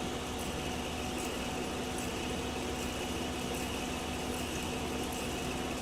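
Large Waldrich plano milling machine running while rough-milling a high-alloy steel plate: a steady mechanical hum with a few faint ticks.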